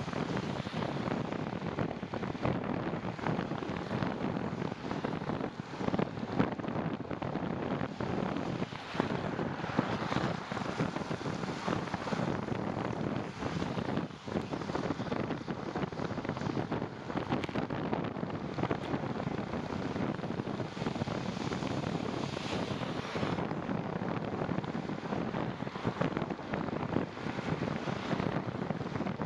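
Steady wind rush on the microphone of a moving bicycle, with the hiss of tyres on a wet road beneath it.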